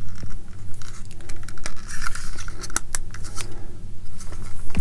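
Small plastic scale-model kit parts being handled and pressed together: scattered light clicks and scrapes, with a few sharper clicks near the middle.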